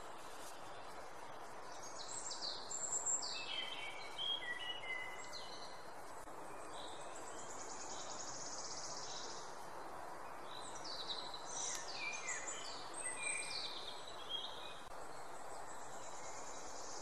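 Outdoor ambience with a songbird singing two bursts of quick falling song phrases, about two seconds in and again about eleven seconds in, over a steady high hiss and a background rush.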